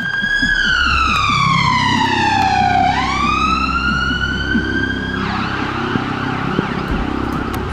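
A siren gives one slow wail, its pitch falling for about three seconds and rising again before it cuts off suddenly about five seconds in, over a steady low rumble.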